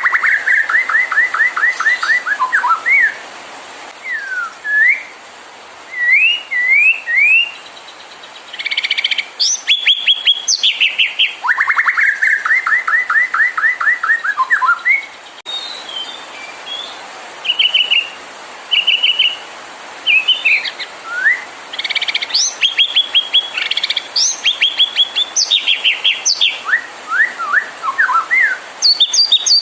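White-rumped shama singing: phrases of fast repeated notes alternating with short rising whistles and chattering runs, with brief pauses between phrases.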